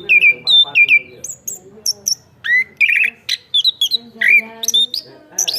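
Chestnut-capped thrush singing vigorously: a fast, varied run of short whistled notes, many dropping in pitch, mixed with sharp high chips.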